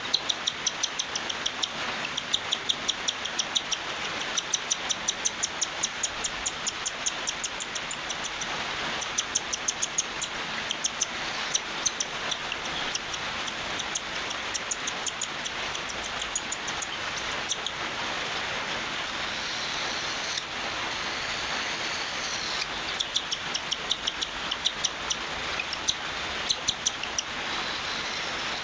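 Cockatiel begging calls during hand-feeding: rapid, repeated high-pitched chirps, about three to four a second, coming in runs with a pause of several seconds past the middle, over a steady hiss.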